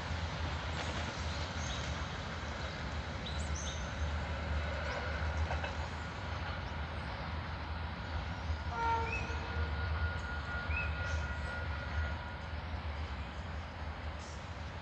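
Steady low rumble of a diesel freight train running on out of sight. A few short high chirps come early on, and a faint held tone sounds for a few seconds past the middle.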